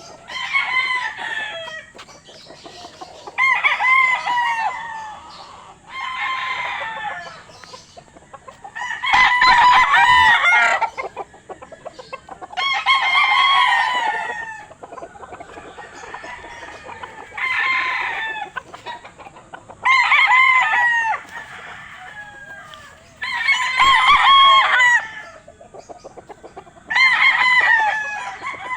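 Roosters crowing over and over, about nine crows each a second or two long, a few seconds apart, some louder than others.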